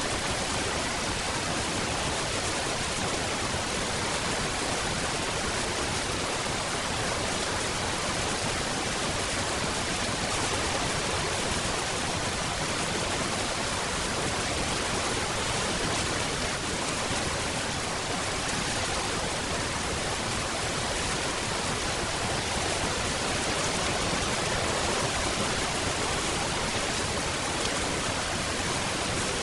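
Steady, dense rain, an even hiss with no single drops standing out.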